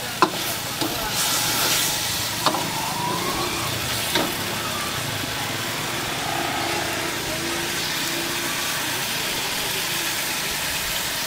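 Chicken masala sizzling and frying in a large iron kadai, with a steady hiss. A long steel ladle strikes the pan three times in the first few seconds as the pieces are stirred.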